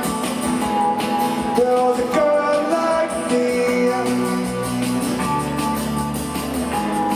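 Live rock band playing: guitars over a steady drum beat, with no clear lead vocal.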